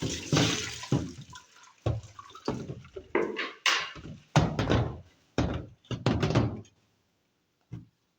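Water splashing and sloshing by hand in a series of short, irregular splashes, with a few knocks, as washing machine parts are rinsed. The splashing stops about two-thirds of the way in, and one last short knock comes near the end.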